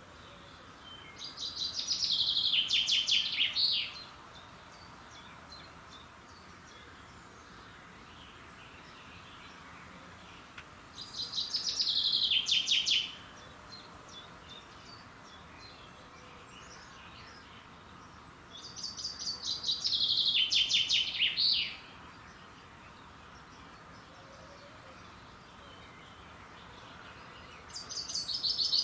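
A songbird singing the same song four times, about every eight or nine seconds: each phrase is a quick run of repeated notes lasting two to three seconds that falls in pitch. A faint steady hiss lies under the pauses between phrases.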